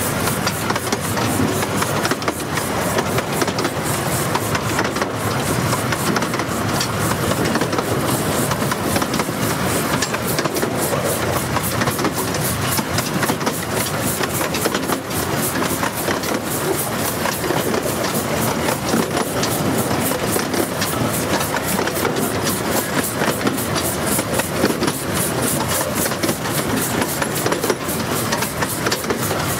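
A 15-inch gauge miniature steam train running steadily, heard from a carriage behind the locomotive: continuous wheel and carriage running noise with clickety-clack over the rail joints.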